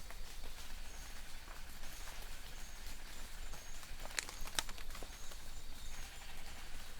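Light rain falling in a forest: a steady patter with scattered drips, two sharper drops about four seconds in, and faint short high bird chirps in the distance.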